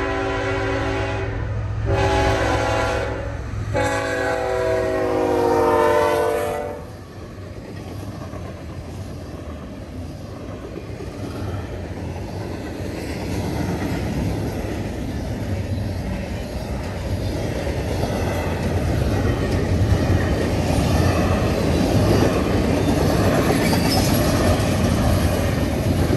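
CSX GE ET44AH diesel locomotive sounding its multi-note air horn in three blasts, the last one long and dropping in pitch as the locomotive passes. Then a fast double-stack intermodal train rolls by, its wheels clattering and rumbling on the rails, growing louder.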